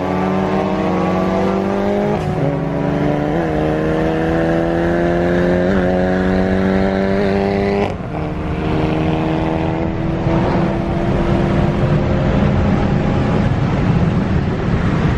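Turbocharged car engine pulling hard at full throttle in a roll race, its pitch climbing steadily for about eight seconds. About eight seconds in the throttle is lifted or the driver shifts, and the engine drops to a lower, steadier drone with loud road and wind noise.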